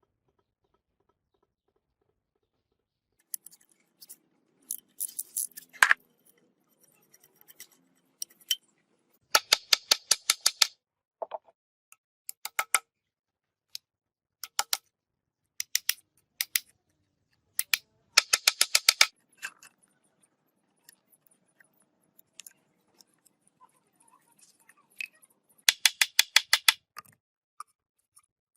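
Hand tools working on the metal of a rusty gearbox: three quick runs of sharp clicks, about eight a second and lasting a second or so each, with scattered single clicks and knocks in between.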